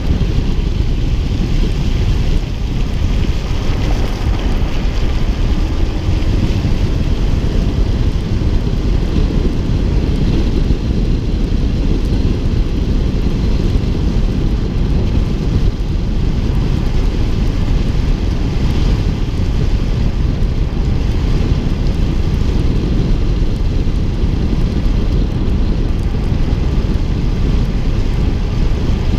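Wind buffeting a GoPro HERO4's microphone on a moving car, with the car's road noise underneath: a loud, steady, rumbling rush.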